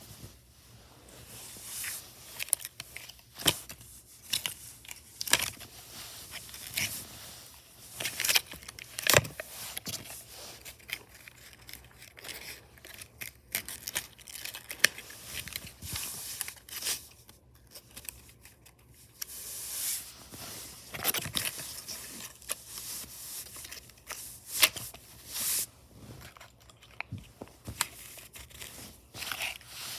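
Irregular handling noises: crinkling and tearing rustles broken by many sharp clicks.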